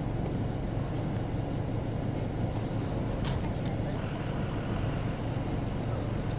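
A steady, low engine hum with no change in speed, with a brief click about three seconds in.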